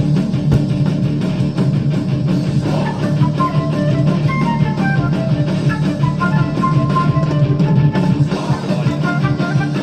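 Heavy metal band track playing loudly: drum kit and electric guitars, with a lead melody line coming in about three seconds in.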